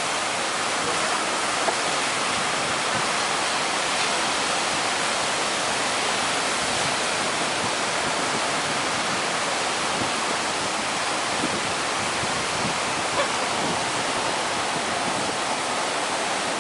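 Strong wind and heavy surf on a beach, a steady, even rushing noise without a break.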